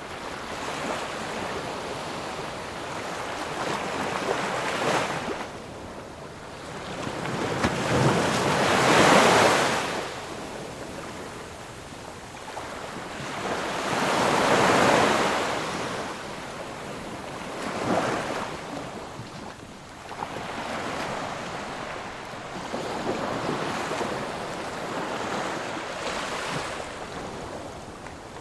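Ocean surf: waves break and wash in one after another, the noise swelling and fading every few seconds. The two largest waves crest about a third of the way through and again about halfway.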